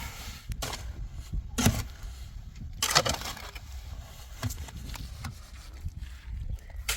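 A handful of sharp knocks and scrapes at uneven intervals, the loudest about three seconds in, over a steady outdoor background.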